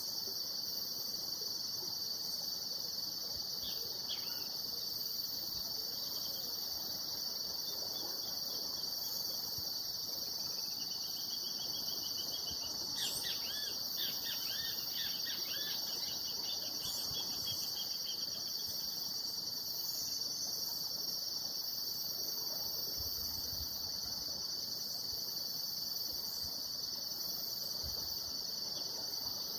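Steady, high-pitched chorus of insects droning without a break, with a bird calling in a quick series of chirps around the middle.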